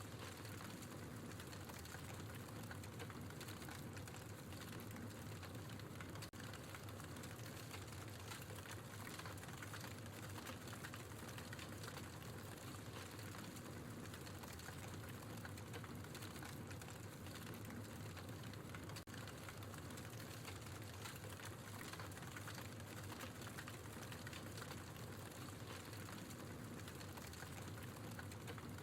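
Logs burning in a fireplace, crackling steadily with many small, quick pops.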